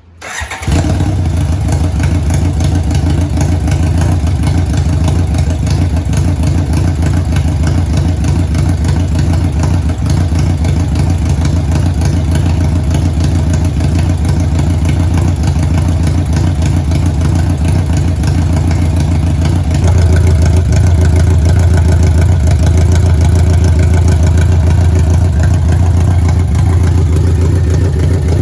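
A 1991 BMW K1's inline four-cylinder engine running steadily through its aftermarket full exhaust, with a deep, even note that gets a little louder about two-thirds of the way through.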